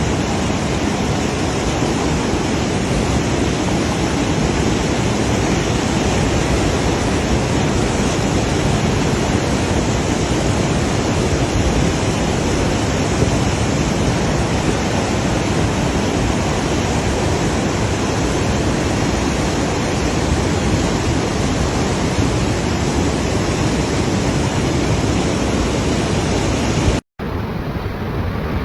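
Steady, loud rush of fast-flowing water. It cuts out for an instant near the end and resumes sounding duller.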